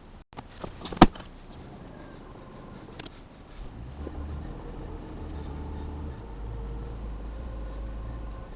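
A sharp click about a second in, then a vehicle engine starts running steadily about three and a half seconds in.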